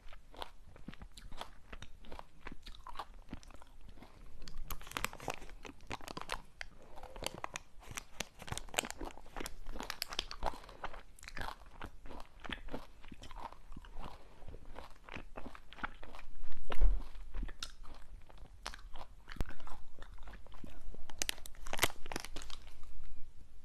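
Close-miked crunching and chewing of a hard, brittle snack: a dense run of sharp, crackly bites with louder clusters about five, ten and twenty-one seconds in. A dull low thump comes about seventeen seconds in.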